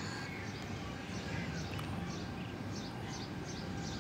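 A bird chirping in a quick repeated series, about four short chirps a second, over a steady background hiss.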